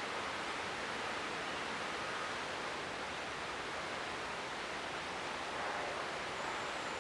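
Steady, even rushing noise with no distinct events, like flowing river water or wind.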